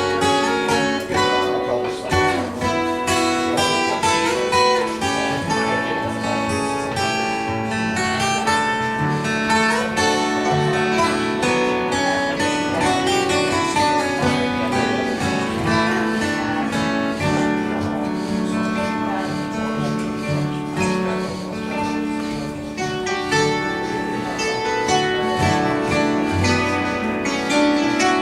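Live acoustic music: plucked acoustic guitar playing an instrumental piece, with steady picked notes over a held bass line.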